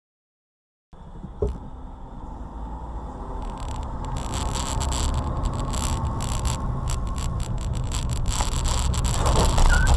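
Dead silence for about a second, then a knock and the steady rumble and rushing noise of a moving vehicle recorded on board, growing louder, with crackling in the upper range.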